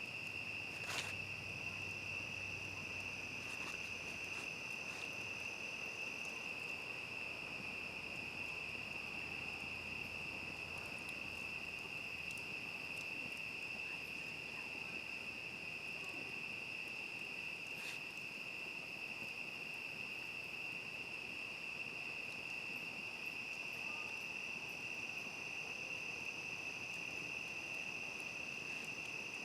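Crickets trilling in a steady, unbroken night chorus, with a second, higher insect trill joining for a few seconds early on and again near the end. A sharp click sounds about a second in and another around the middle.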